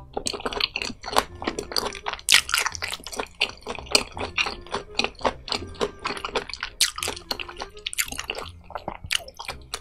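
Close-miked wet chewing of a big mouthful of sliced raw fish: dense, irregular squishing and smacking mouth sounds.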